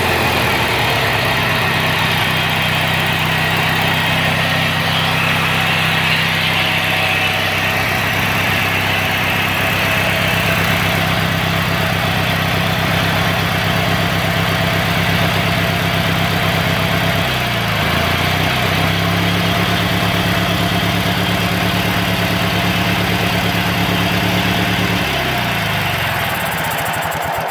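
Briggs & Stratton 14 hp opposed-twin engine of a Bolens garden tractor running steadily. About two-thirds through, its speed dips and recovers; near the end it slows and dies, cut out by what the owner takes for an electrical fault.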